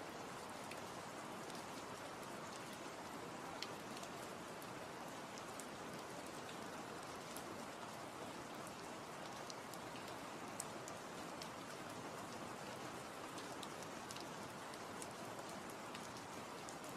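Steady rain falling: an even hiss with scattered light drop ticks, two of them a little louder.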